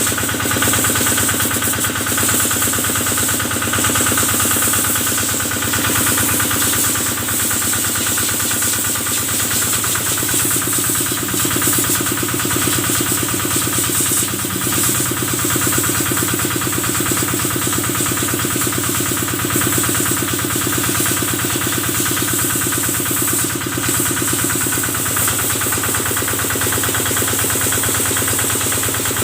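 Kubota stationary diesel engine running steadily under even load, driving a water pump for a spray hose.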